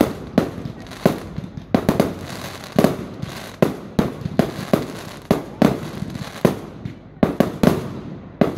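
Aerial firework shells bursting in quick, irregular succession, about two sharp bangs a second, each trailing off in a short echo.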